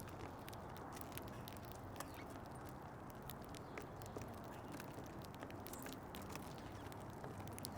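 Birds feeding at a seed feeder: irregular sharp little taps and clicks of pecking and seed husks, several a second, over a steady low background rumble.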